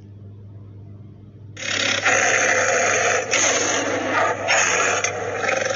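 Recorded tiger sound, a loud, harsh, rasping call that starts abruptly about a second and a half in, with two short breaks.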